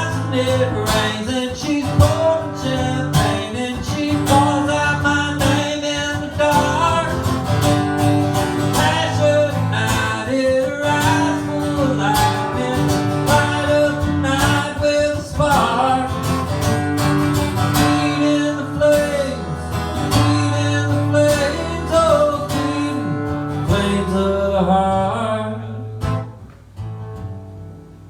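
Instrumental break in a live country song: acoustic guitar strumming under a bending lead melody line, dropping in level near the end.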